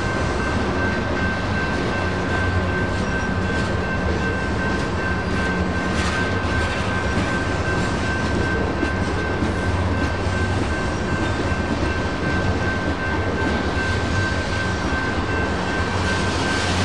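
Freight train cars rolling through a grade crossing: a steady rumble and rattle of wheels on the rails. Over it runs a continuous high tone from the crossing's electronic bell, which rings for the whole activation.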